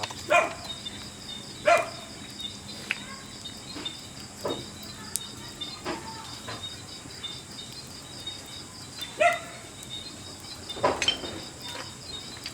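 An animal gives about half a dozen short, sharp barks or yelps at irregular intervals, each dropping in pitch, over a steady chirping of insects.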